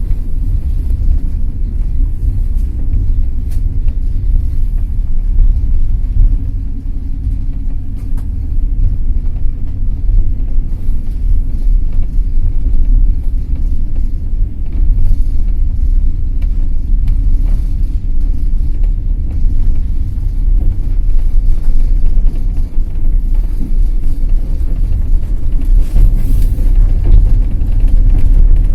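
Passenger train under way: a steady low rumble from the running gear, with faint scattered clicks of the wheels on the track.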